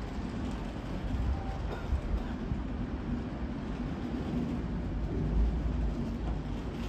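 Train rumbling at a station platform: a steady low rumble with a faint hum, growing a little louder about five seconds in.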